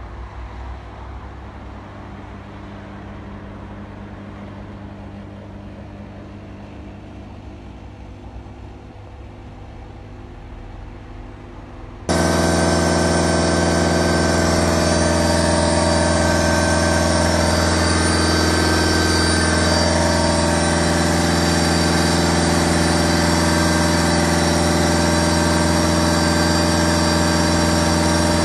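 Diesel car engine running steadily, fairly quiet at first. About twelve seconds in, the sound jumps abruptly to a much louder, steady run with a strong low hum and holds there.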